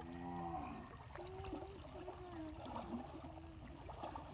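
Swollen river water flowing steadily, with distant voices calling and shouting over it; one drawn-out call comes at the very start.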